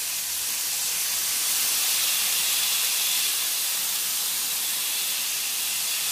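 Skewers of cream-marinated chicken tikka sizzling in ghee in a nonstick frying pan: a steady, even hiss.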